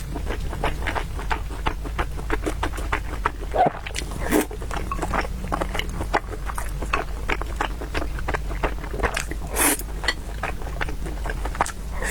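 Close-miked chewing and lip-smacking of a person eating noodles: a fast, irregular run of wet clicks, with a couple of louder mouthfuls about four and ten seconds in.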